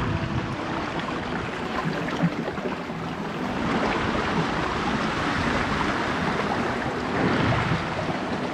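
Sea waves washing against shoreline rocks, a steady rushing that swells a little in the second half, with some wind on the microphone.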